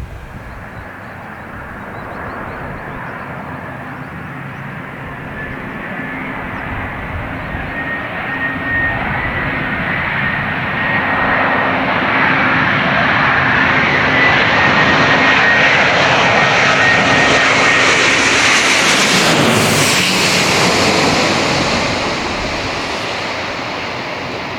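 Jet airliner passing low overhead: engine noise and a steady high whine build up, peak about twenty seconds in with a drop in pitch as it goes over, then fade away.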